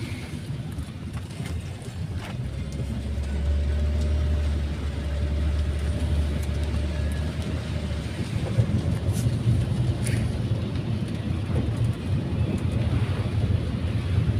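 Car cabin road noise while driving: a steady low rumble of engine and tyres, with a faint steady whine over the first half and a few light clicks.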